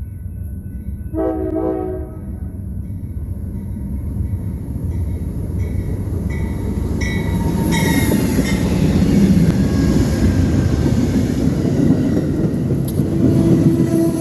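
Amtrak California Zephyr passenger train approaching: a short multi-note horn blast about a second in, then the rumble of the train growing louder with regular clicks about every 0.7 s. Another horn note starts near the end.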